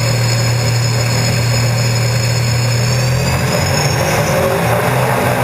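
Unlimited hydroplane's gas-turbine engine running, heard onboard: a steady low drone under rushing noise, with a high turbine whine that drops in pitch and fades about four seconds in.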